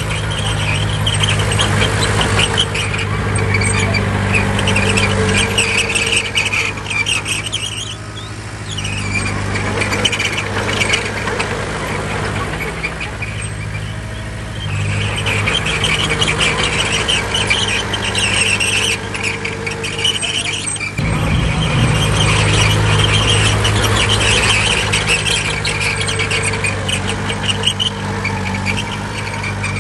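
Bulldozer's diesel engine running hard under load, with the high metallic squeal and clatter of its steel crawler tracks. The engine eases off briefly a few times.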